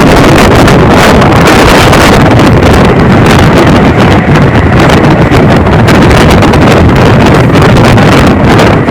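Loud wind rushing and buffeting the microphone over the running noise of a moving passenger train.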